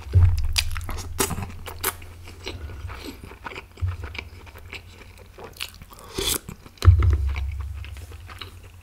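Close-miked eating of chaap in gravy with green chilli paratha: chewing and biting with many short wet clicks and smacks of the mouth. Three deep thuds land at about the start, four seconds in and seven seconds in.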